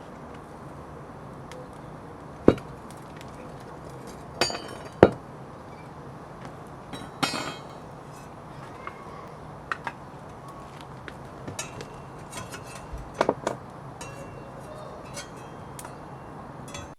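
Scattered sharp metallic clinks and knocks of steel tools, crucible and ingot moulds being handled while molten aluminium is poured and ingots are knocked out, over a steady low hum.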